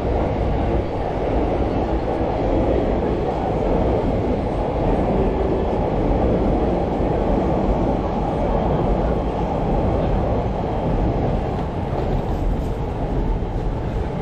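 A train passing, heard as a steady, dense rumble that does not let up.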